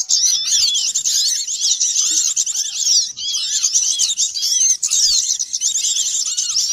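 Bird-trapping lure recording of many small songbirds: a dense, loud chorus of overlapping high chirps and twitters, with a lower arched call now and then.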